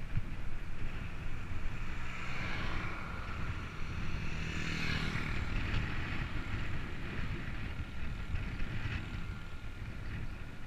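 Wind rumbling on the microphone with road noise during a ride, and a vehicle passing about halfway through, its sound swelling and then fading.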